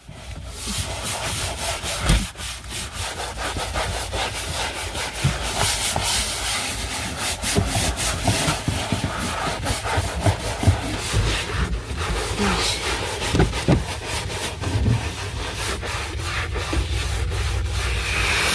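Scrubbing: rapid, irregular rubbing strokes on a hard surface over a steady low rumble.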